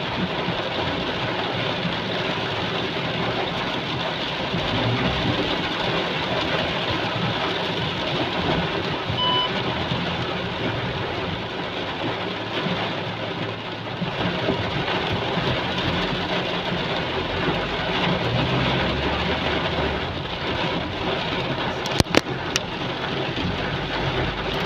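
Heavy rain pouring steadily, an even rushing hiss with a low rumble underneath. A short electronic beep sounds about nine seconds in, and a few sharp clicks come near the end.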